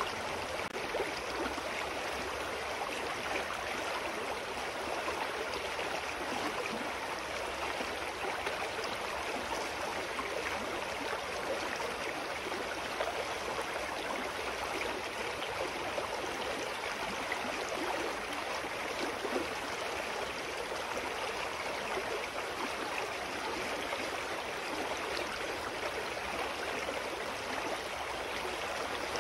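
Clear mountain stream flowing and babbling over rocks, a steady rush of water.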